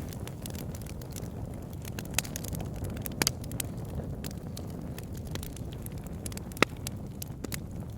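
Campfire burning: a steady low rumble of flames with scattered sharp crackles and pops of burning wood, the loudest pop about two thirds of the way through.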